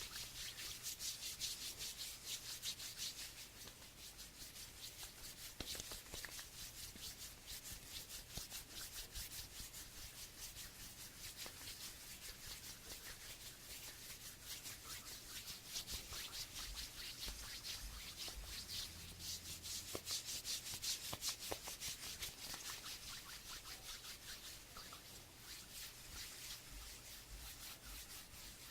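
Hands rubbing, a faint dry swishing made of many quick strokes that swells twice, near the start and again past the middle.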